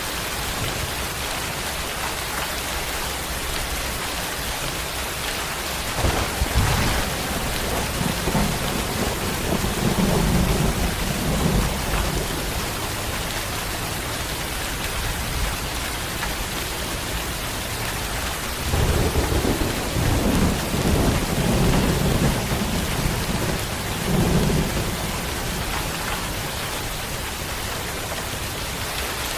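Steady heavy rain hissing, with rolls of thunder rumbling low: one starts with a sharp crack about six seconds in and rumbles on for several seconds, and a second long roll rumbles about two-thirds of the way through.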